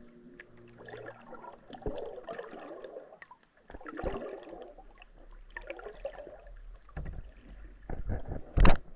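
Underwater recording: irregular clicks and knocks with bursts of swishing, gurgling water noise, and one much louder knock near the end.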